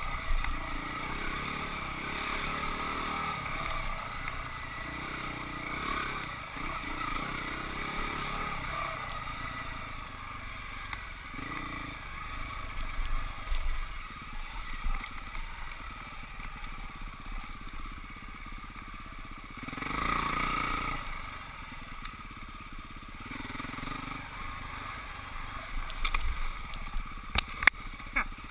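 Husqvarna 449 dirt bike's single-cylinder four-stroke engine running under a rider, rising and falling with the throttle, with a few sharp knocks near the end.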